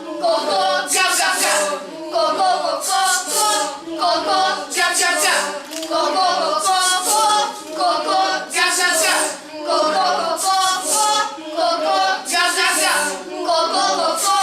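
A group of voices singing together, choir-like, in short phrases that repeat about every two seconds.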